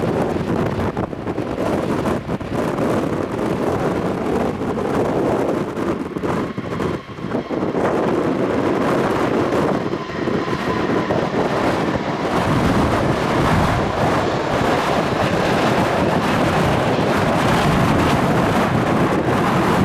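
Jet engines of an Airbus A321 at takeoff thrust, a steady noise that grows louder and fuller about twelve seconds in, with gusty wind buffeting the microphone.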